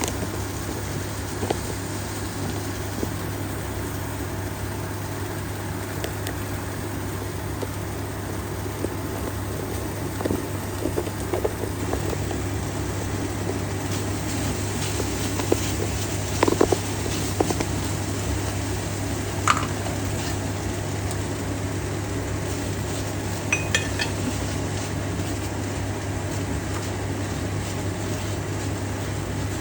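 Pots, pans and utensils clinking and knocking now and then over a steady low hum, with a few louder ringing clinks around the middle.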